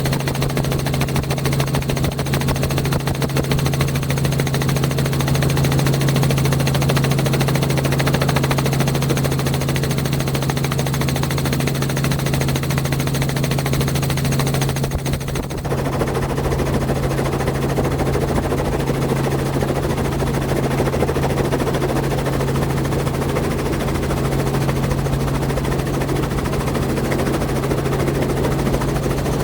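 Loud, steady engine noise with a strong low hum and a rapid pulsing beat; the sound changes about halfway through.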